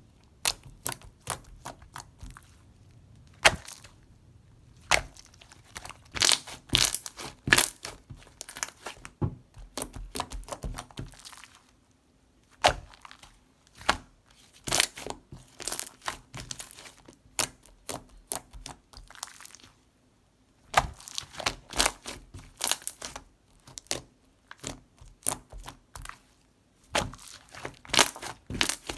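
Mixed water-jelly slime being squished and pressed by hand, giving quick runs of sharp crackling pops and clicks, broken by a couple of brief pauses.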